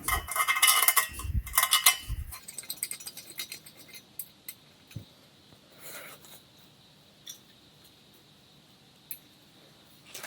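Metal assembly hardware being handled: a burst of clinking and rattling for about the first two seconds, then a few scattered light clicks and taps.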